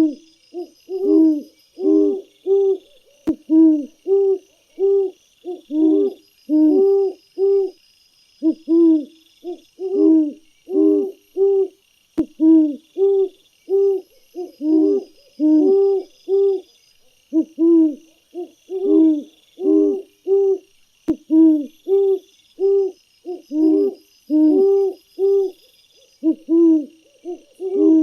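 Birds giving low hooting calls in quick runs of a few notes, about two notes a second, with a faint high pulsing trill behind them.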